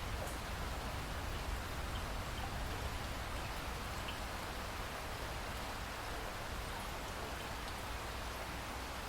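Steady rainfall with a few faint, scattered drip ticks.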